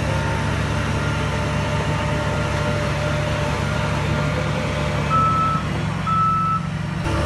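Heavy diesel earth-moving machine running steadily at a low rumble, with two reversing-alarm beeps about a second apart near the end as the machine backs up.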